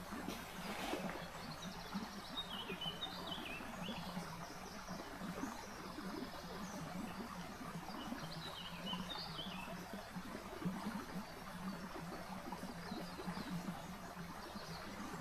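Small birds chirping in short phrases, a few times, over a steady rushing hiss of stream water.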